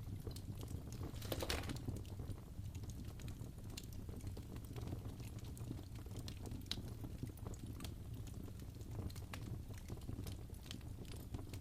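Wood fire crackling in a fireplace: irregular sharp pops and snaps over a low steady rumble, with a louder flare of crackling about a second and a half in.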